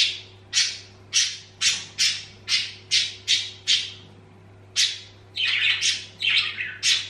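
A bird calling in a string of short, high calls, two or three a second, with a brief break a little past the middle.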